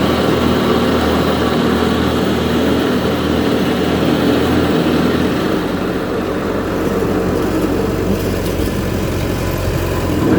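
1941 Farmall A tractor's four-cylinder engine running steadily.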